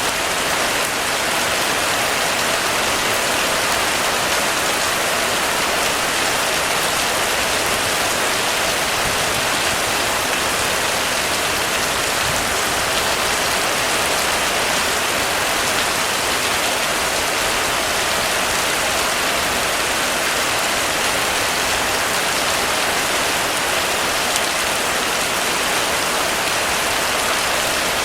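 Heavy rain falling steadily on a roof, a dense, even hiss of drops with no thunder or other sounds over it.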